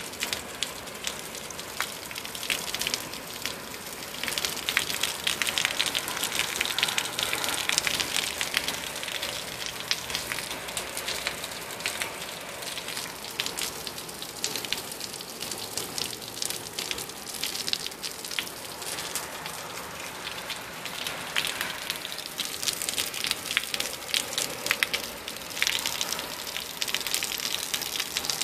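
Heavy rain pouring down in a dense patter of drops, swelling louder a few seconds in and again near the end.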